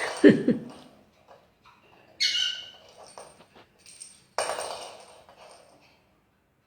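A pet bird gives a short, harsh squawk about two seconds in. About four and a half seconds in comes a louder, noisier burst, and there is a brief low sound at the very start.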